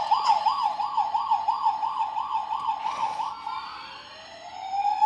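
Toy fire truck's electronic siren, loud: a fast yelp rising and falling about three times a second, changing about three and a half seconds in to a slow rising wail. A fainter, higher-pitched toy siren sounds alongside.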